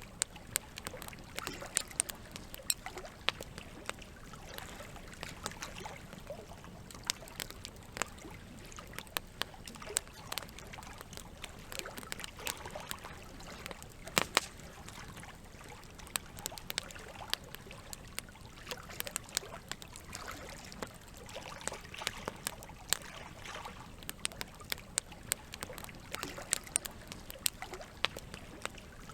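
Campfire crackling, with irregular sharp pops and snaps, over a steady trickle of flowing water.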